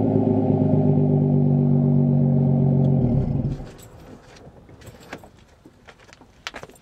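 Chrysler 300M Special's V6 exhaust idling steadily, then the engine is switched off about three seconds in and the sound dies away quickly. Faint clicks and taps follow.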